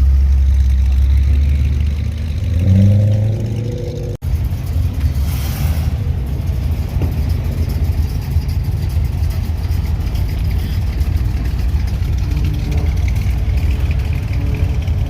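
Car engine running with a deep, loud rumble, revving up briefly about two to three seconds in. After an abrupt cut about four seconds in, a steady low engine rumble follows as cars pull out.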